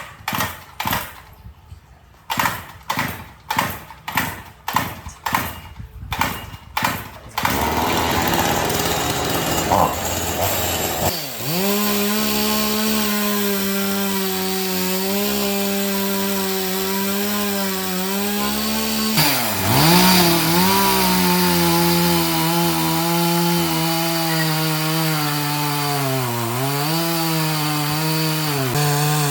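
Sharp strikes about two a second for the first seven seconds, then a steady noise, then from about eleven seconds in a chainsaw running steadily as it cuts wood, its pitch sagging briefly about twenty seconds in and twice near the end.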